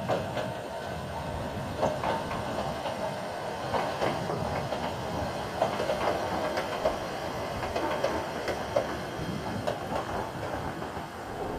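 Narrow-gauge (762 mm) electric train of the Sangi Railway Hokusei Line running along the track, a steady rolling rumble broken by irregular clicks and knocks from the wheels over the rails.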